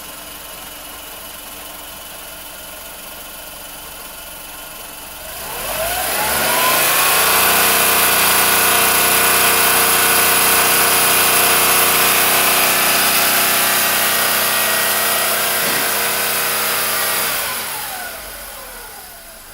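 2002 Volkswagen Polo 9N's 1.2-litre three-cylinder petrol engine idling, then revved up about five seconds in, held at high revs for about ten seconds, and let back down to idle near the end. It runs without faults: tested as run and drive, no issues.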